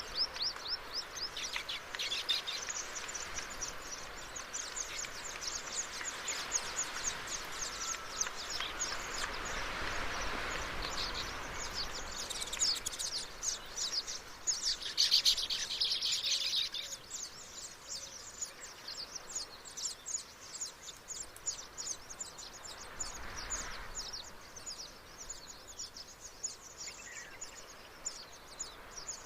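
Many small birds chirping rapidly in an overlapping chorus, with a louder, dense cluster of chirps about halfway through, over a steady background hiss.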